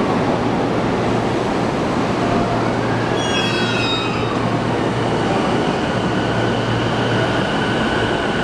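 JR E233-1000 series electric commuter train pulling in alongside the platform with a steady rumble of passing cars. About three seconds in, a falling whine is heard as it slows, followed by a steady high tone.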